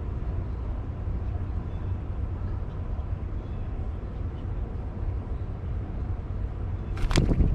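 Steady low outdoor rumble, with a short, loud clatter of several knocks about seven seconds in.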